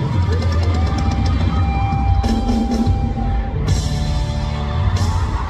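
Loud concert music with a rock-style drum kit and heavy bass, played over the venue's sound system.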